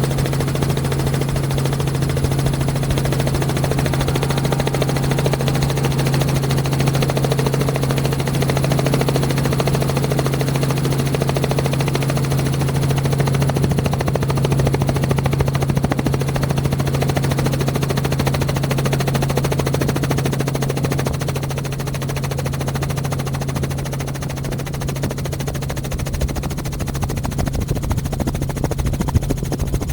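Heavy engine noise: a steady low drone with a fast chopping rattle over it, easing slightly about two-thirds of the way through.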